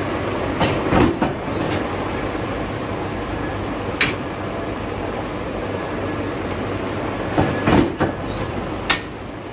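Steady rumbling noise of forging-shop machinery, broken by sharp metal knocks: a few about a second in, one near four seconds, and several between about seven and a half and nine seconds.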